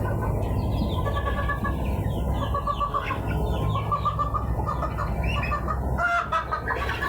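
A flock of chickens clucking and calling, many short calls overlapping over a steady low background noise, growing busier about six seconds in.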